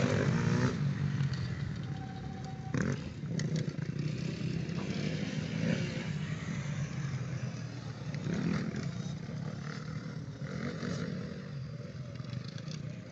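Motocross bikes riding around a track, their engines rising and falling in swells every few seconds as they rev and pass.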